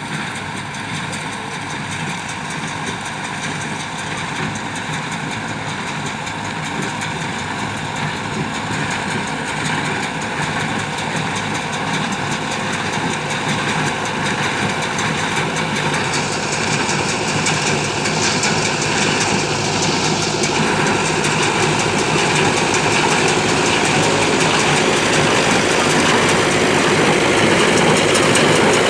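Ford 5000 tractor running with a New Holland BC5060 square baler working behind it, a steady mechanical clatter growing steadily louder.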